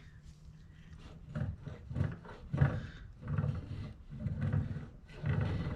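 Small metal parts from a disassembled steering rack being handled on the bench, giving a string of irregular rubbing and scraping strokes about one every half second to second.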